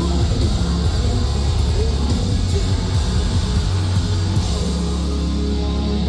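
Metalcore band playing live and loud: distorted guitars, bass and drums, settling into a held low chord in the second half.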